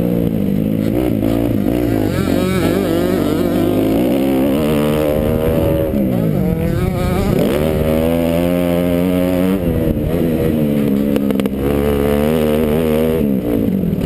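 Kawasaki KX250F's 250 cc single-cylinder four-stroke motocross engine, revving hard under race throttle. Its pitch rises and falls with throttle and gear changes, dropping sharply and climbing again about halfway through.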